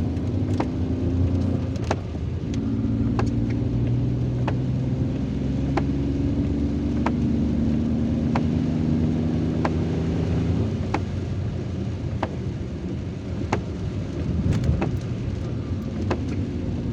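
Inside a moving car in heavy rain: engine and tyres on the wet road drone steadily, and the old windscreen wipers click sharply at each sweep, about once every 1.3 seconds.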